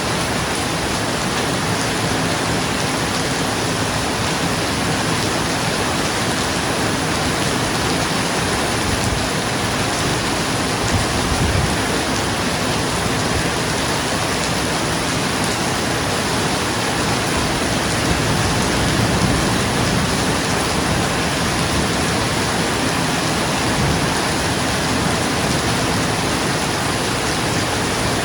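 Steady rain falling on a roof, a dense, even hiss. There are two faint low rumbles of distant thunder, about a third of the way in and again about two-thirds of the way in.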